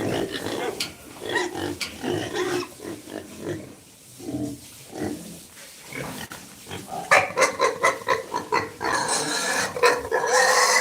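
Pigs grunting in short bursts, then louder, higher squealing from about seven seconds in, mixed with sharp clicks.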